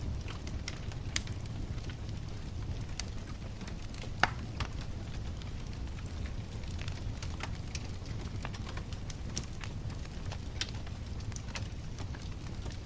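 Wood fire burning, with frequent sharp crackles and pops over a steady low rumble; one louder pop about four seconds in.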